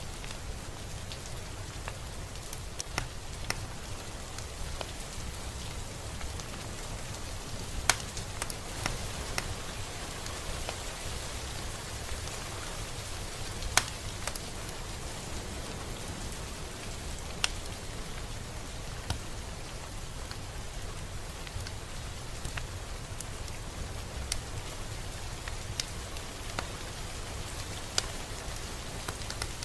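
Steady rain falling, with scattered sharp drops hitting a surface every few seconds, the loudest about 8 and 14 seconds in.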